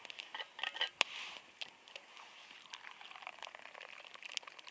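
Small campfire crackling in the snow, with scattered sharp pops, the loudest about a second in, over a faint hiss.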